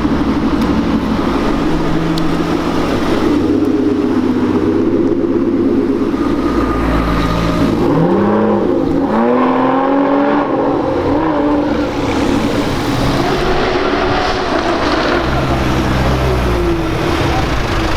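A sports car engine running at idle, revved up and dropping back twice around the middle.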